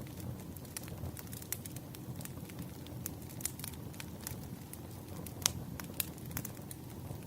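Wood fire crackling: irregular sharp pops and snaps over a steady low rumble of burning logs, with a louder pop about five and a half seconds in.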